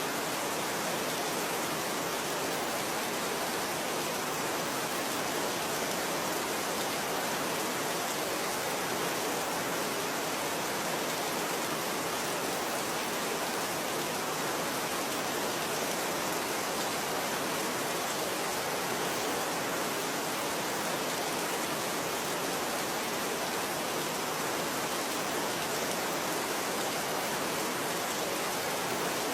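Steady rain falling: an even, unbroken hiss of many drops that stays at the same level throughout.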